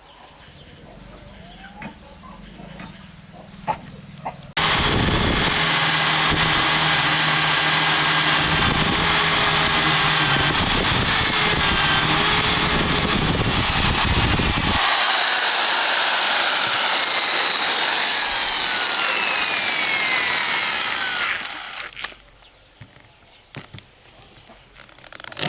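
A power saw cutting wood. It starts abruptly about four and a half seconds in after a few light knocks and runs loud for about ten seconds. The low motor note then drops out and a high whine falls away for several seconds. It starts up again at the very end.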